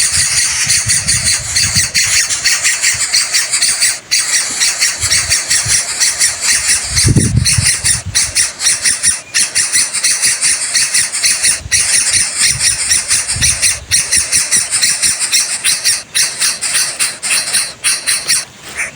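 Coucal nestlings giving harsh, rasping begging calls, a continuous rapid-pulsing din throughout, as they beg for food at the nest. A brief low rustle or thud comes about seven seconds in.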